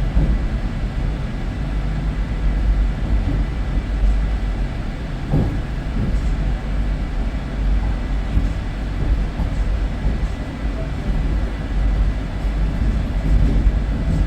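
Train running along the track: a steady low rumble with a few faint knocks.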